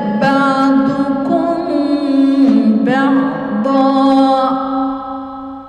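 A woman's voice reciting the Quran in melodic tajwid style, drawing out the end of a verse in long held notes that shift in pitch a few times and fade away near the end.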